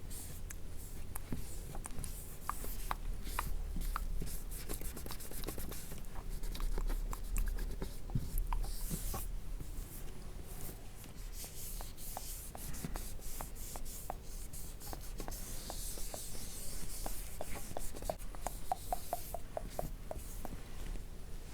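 Close-miked fingertips tapping and rubbing skincare essence over a mannequin's face, with many small clicks and taps and a brief run of quick, even ticks near the end.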